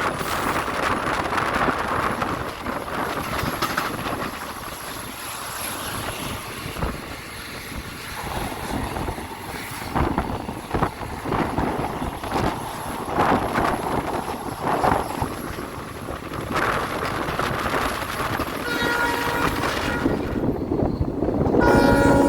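Passenger train running at speed: wheels clattering on the track with a steady rush of air. Near the end the WDP4B diesel locomotive's horn sounds, faintly at first and then louder.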